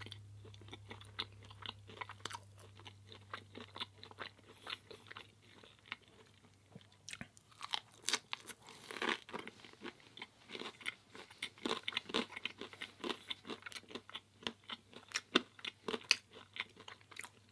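Close-up chewing of pizza: a busy run of small crunching and smacking clicks, denser and louder from about seven seconds in.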